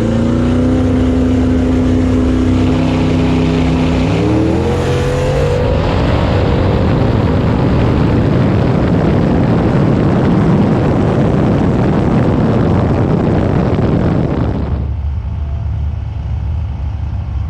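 Twin-turbo Ford Coyote V8 drag car held at steady revs on the line, then launching about four seconds in with a rise in pitch and running hard at full throttle down the strip. The throttle comes off suddenly near the end and the engine drops to a lower, quieter run.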